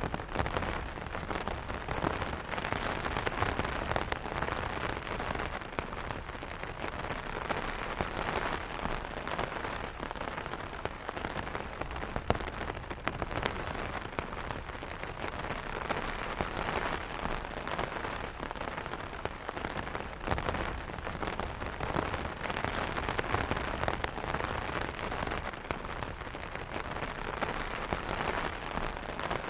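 Steady rain drumming on an umbrella canopy: a dense patter of many drops hitting taut fabric, with a few sharper, heavier drops standing out.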